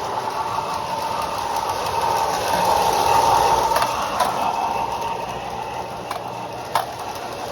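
Lionel O-gauge B&O Budd RDC model train running on track: a steady motor and wheel hum that grows louder about three seconds in as the car comes closer, then eases off. There is a single sharp click near the end.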